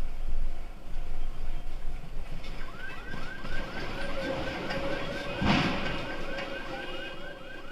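A low rumble, then from about two and a half seconds in a car alarm's rapid rising chirps, about four a second. There is a sharp knock about five and a half seconds in.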